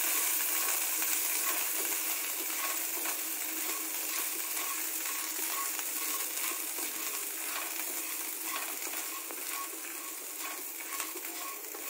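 Dried red chillies and garlic cloves sizzling in a little oil in a wok while a spatula stirs and scrapes them, with small clicks and clinks. The sizzle slowly dies down.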